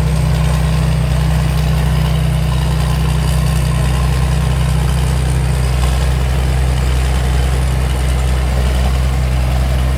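Combine harvester's diesel engine running steadily under load while harvesting rice, a constant low drone with machinery noise above it.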